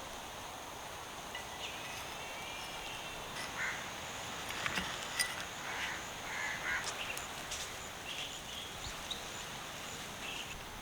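Birds calling in short chirps and whistles over a steady outdoor hiss, with a few sharp clicks in the middle.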